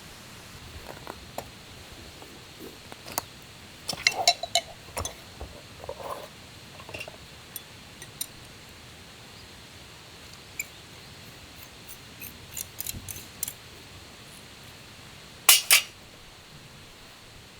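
Scattered small clicks, taps and knocks of camping gear being handled, with two loud sharp clinks near the end, over a steady faint hiss.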